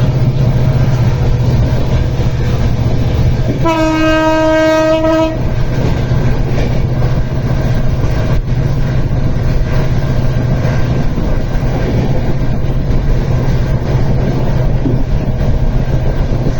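Steady loud rumble of a moving vehicle with a low drone underneath, and one horn blast about four seconds in, lasting about a second and a half.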